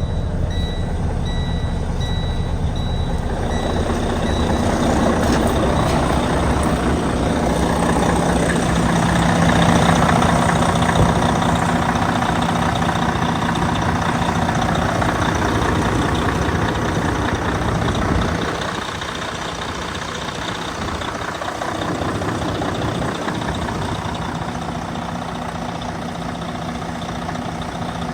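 2012 Detroit Diesel DD13 12.8-litre inline-six diesel engine running steadily. It grows louder for several seconds in the first half, and its deep low end falls away about two-thirds of the way through.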